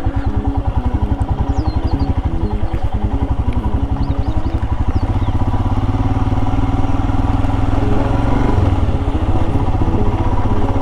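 Royal Enfield Himalayan's single-cylinder engine running at low revs with a distinct, even pulse, then picking up to a faster, steadier run about halfway through.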